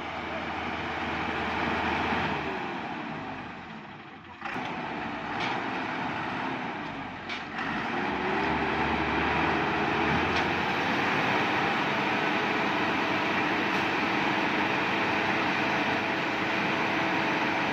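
A truck engine revving hard under load. Its pitch climbs in the first couple of seconds, drops with a brief dip about four seconds in, then climbs again and holds high.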